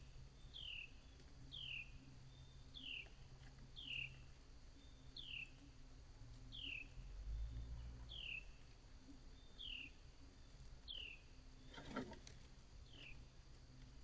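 A small animal's faint chirp, a quick downward-slurred note repeated steadily about once a second. There is a brief knock about twelve seconds in and a low rumble around the middle.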